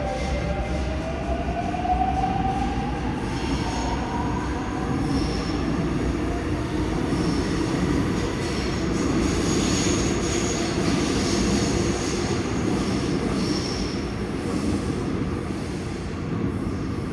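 Seoul Subway Line 5 train pulling out: its traction motors give a whine that rises in pitch over the first three seconds as it accelerates, then the steady rumble of wheels on rail, with high wheel squeal through the middle stretch.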